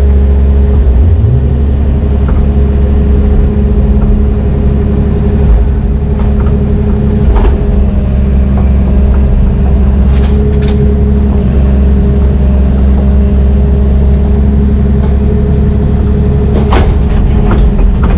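Heavy diesel engine running steadily with a deep low drone, with a few sharp metallic knocks over it, the loudest near the end.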